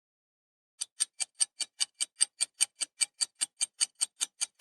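Clock-style ticking sound effect, a countdown timer for the quiz's answer time. It starts about a second in with about five evenly spaced ticks a second.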